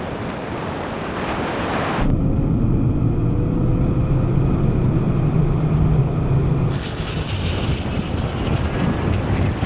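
Wind rush and road noise of SUVs running flat out in a drag race, with a faint engine note rising slowly under the rush; the sound changes abruptly twice as the shots cut.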